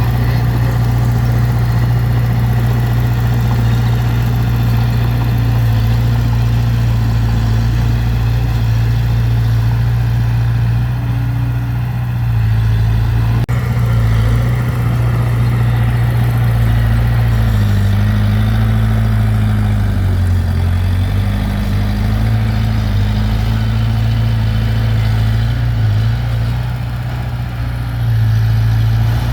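Heavy earthmoving machine's diesel engine running steadily; its pitch dips and recovers about two-thirds of the way through.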